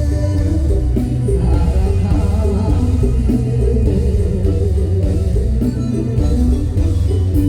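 Band music with guitar and a heavy, steady bass line.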